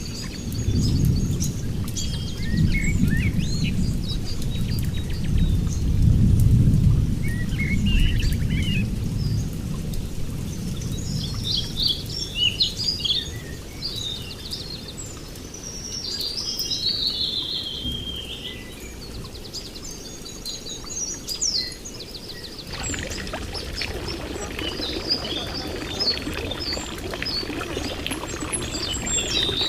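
Forest ambience: many birds chirping and calling over a steady rain-like hiss, with low rumbling for the first ten seconds or so. About twenty-three seconds in the hiss grows fuller.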